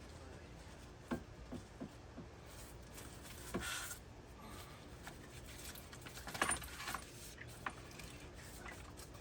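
Light metallic clicks and clinks of pool-pump parts and hardware being handled as a replacement motor is fitted into position, with a short scrape in the middle and a louder cluster of clinks a little after it.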